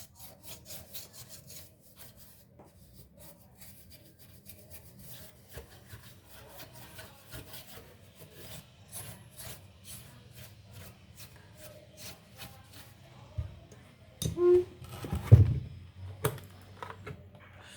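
Large brush scrubbing dust off a desktop motherboard in quick repeated strokes, then a few louder bumps from the board being handled near the end.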